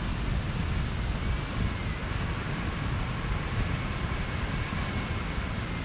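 Steady rush of wind buffeting the microphone in paragliding flight during a descent, a continuous rumbling noise with no breaks.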